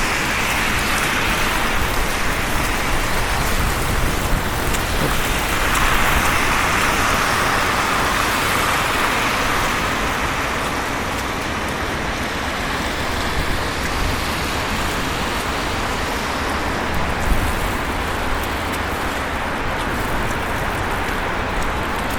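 City street traffic in a snowstorm: a steady hiss of tyres and engines, swelling as vehicles pass near the start and again about six seconds in.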